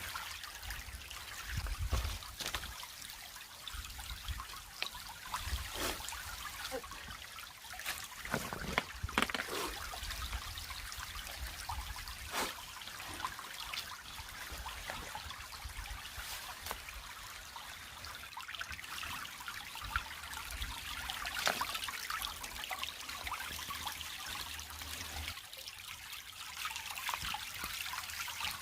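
Small creek trickling, a steady watery hiss, with scattered small knocks and a low rumble that stops near the end.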